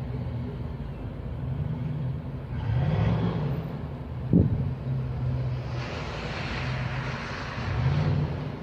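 Car engine running with road noise, as picked up by a dash cam, its note swelling about three seconds in and again near the end. A rushing sound builds about six seconds in, and there is a single sharp click a little past four seconds.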